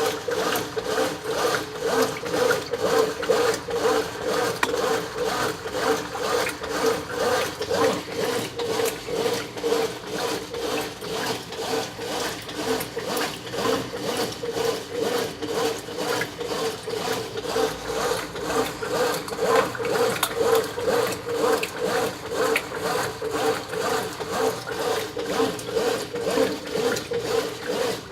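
Brastemp 9 kg top-loading washing machine agitating a full load at high water level: a steady motor hum with a quick, even rhythm of churning water and clothes.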